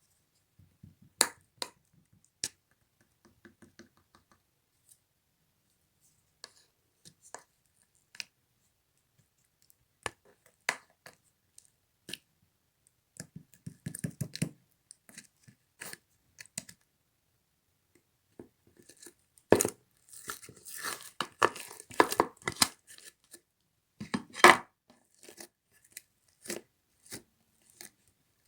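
Slime being handled by hand: scattered sharp clicks and pops at first, then from about twenty seconds in, dense crackling and popping as it is squished and pressed.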